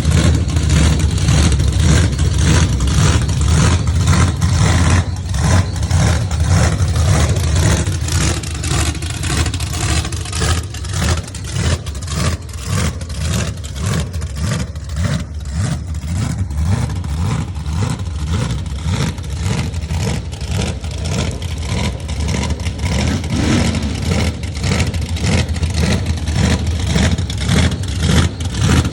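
Supercharged Ford F250 truck engine running loud, revved over the first several seconds and then settling into a choppy, pulsing idle.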